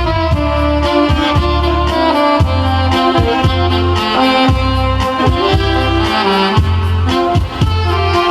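Saxophone playing a sustained melody over a backing track with a steady, repeating bass line.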